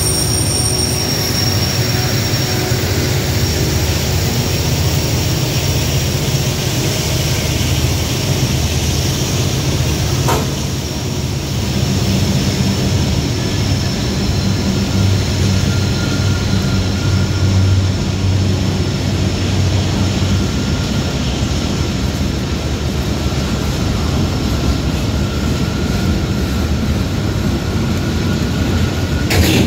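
Norfolk Southern freight train's cars rolling past close by: a steady, loud rumble of steel wheels on rail, with a single clank about ten seconds in. Thin high squeals of wheel flanges on the curved track ride over it, one fading early on and another coming in about halfway through, and a few sharp knocks come at the very end.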